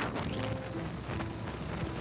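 Wind buffeting the microphone of a moving motorcycle, a steady rushing noise with the motorcycle's engine running low underneath.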